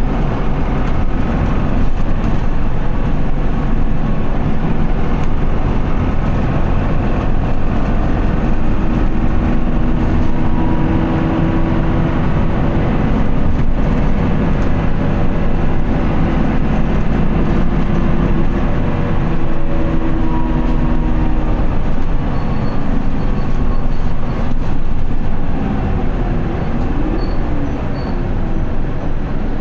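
Isuzu Erga city bus's four-cylinder diesel engine running under load, heard from inside the cabin, a steady drone whose pitch rises and falls slowly with road speed. It eases off a little in the last few seconds.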